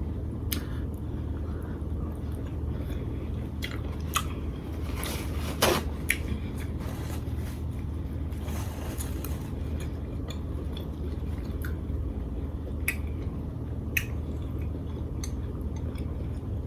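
Quiet eating sounds: chewing, with scattered clicks and taps of tableware over a steady low hum.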